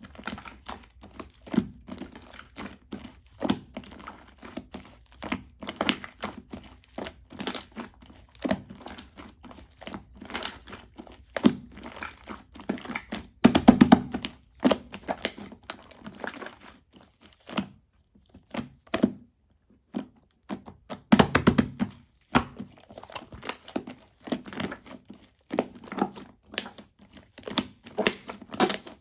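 Shaving-foam slime being squished and pressed by hand, making a rapid, irregular stream of sticky crackles, clicks and pops. There are louder squelching clusters about halfway through and again about two-thirds of the way through, with a brief pause between them.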